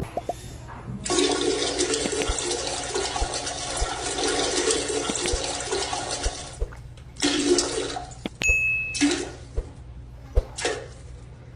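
Rushing water for about five and a half seconds, then three or four shorter gushes, with a brief high beep in between.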